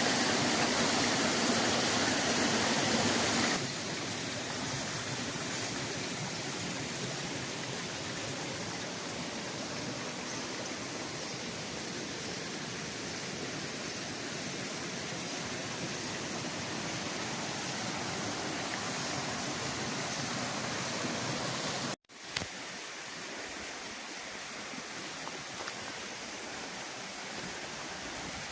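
Steady rush of water from a waterfall on the Rufabgo river. It is louder at first, drops abruptly about three and a half seconds in, breaks off for an instant about 22 seconds in, and then resumes slightly quieter.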